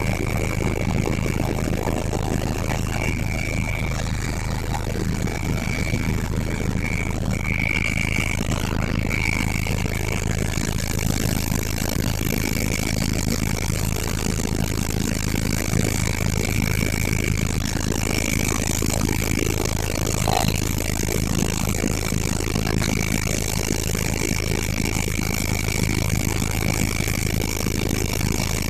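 Helicopter engine and rotor running steadily, a constant low hum under a broad roar with a high whine that fades in and out.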